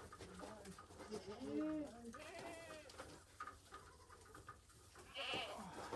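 Goats bleating, a couple of wavering calls in the first half.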